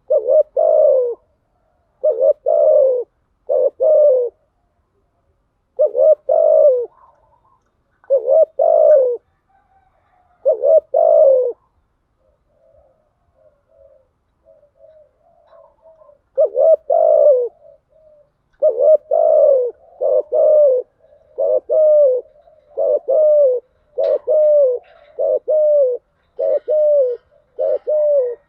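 Spotted dove cooing: low, repeated coos in short groups separated by pauses, then soft low notes in the middle, then a quicker run of coos about one a second. A lure recording of dove calls meant to stir up decoy doves.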